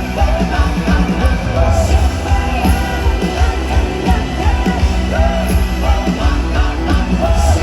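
Live rock band playing loudly, with heavy bass and drum hits under a melodic line, as heard from the crowd at a concert.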